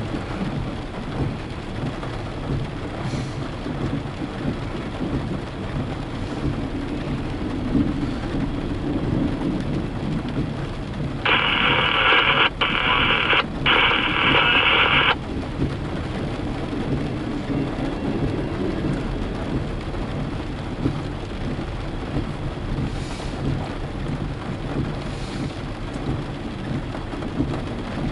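Steady rain with a low rumble throughout. About eleven seconds in, a scanner radio gives a loud burst of static lasting about four seconds, broken twice.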